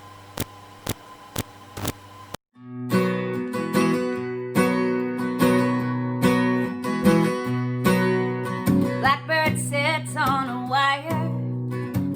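A short run of evenly spaced clicks, about two a second, then a brief pause before a strummed acoustic guitar intro to a folk song begins. About nine seconds in, a wavering higher melody line joins the guitar.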